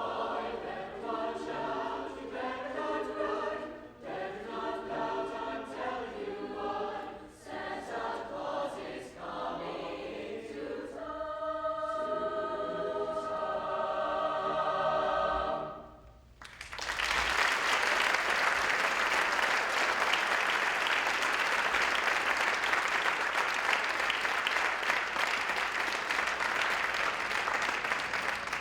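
High school choir singing, closing on a long held chord, followed by audience applause that starts about 17 seconds in and carries on steadily.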